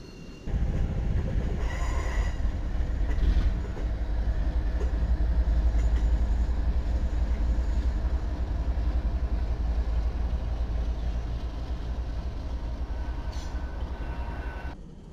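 Diesel-hauled freight train passing close by: a loud, steady low rumble of locomotive and rolling wheels that starts abruptly about half a second in, with faint wheel squeal and a short clank near the end.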